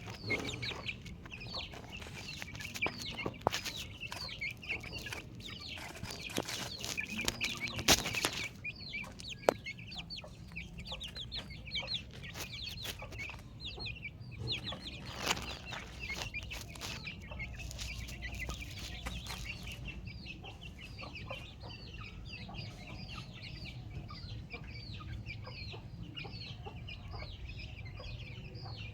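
Chickens clucking and chirping, with many short high calls in quick succession throughout. There are several sharp knocks in the first half.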